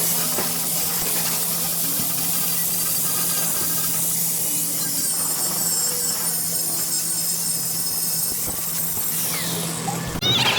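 Steady hiss of compressed air over a steady low hum, breaking off shortly before the end.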